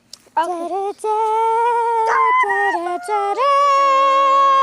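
A voice holding long, steady wailing notes, unaccompanied, several in a row that step to new pitches.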